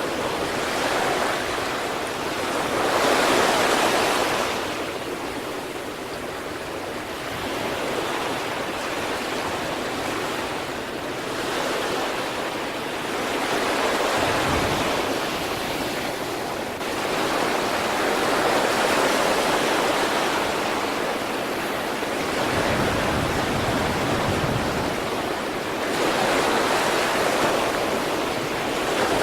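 Sea waves breaking and washing on the shore, a continuous rush of surf that swells and eases in repeated surges every few seconds.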